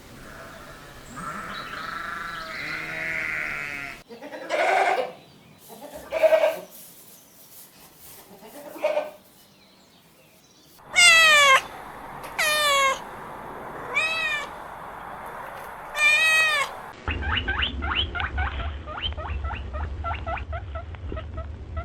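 A string of short farm-animal clips led by goats bleating: several separate calls, then four loud calls that fall steeply in pitch. About three-quarters of the way through, a new clip starts with fast-repeated short squeaks over a low hum.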